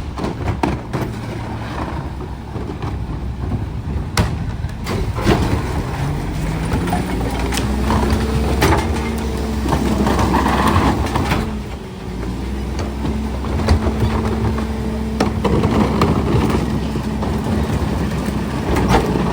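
Garbage truck's diesel engine running, revving up about seven seconds in to a steady higher pitch that dips briefly near the twelve-second mark, with scattered metallic clanks and knocks.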